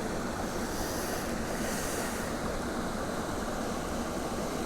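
Steady rushing of a mountain creek's rapids and falling water, with a short brighter hiss about two seconds in.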